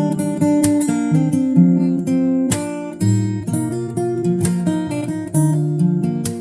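Acoustic guitar music, plucked and strummed chords.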